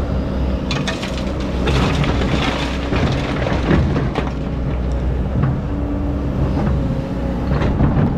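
Excavator's diesel engine running steadily under load, with bouts of scraping and crunching as the bucket digs into hard-packed sand, the heaviest from about one to four seconds in and again near the end.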